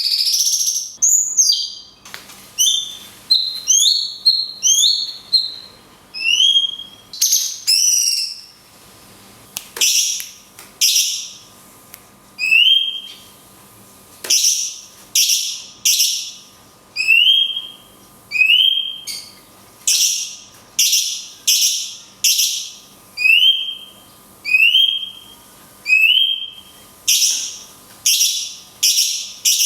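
Cucak cungkok calling repeatedly, about once a second: short upswept whistled notes alternating with harsh, shrill screeches.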